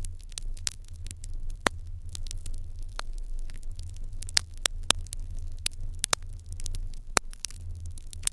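Wood fire crackling in an irori hearth: sharp, irregular pops and snaps, several a second, over a steady low rumble.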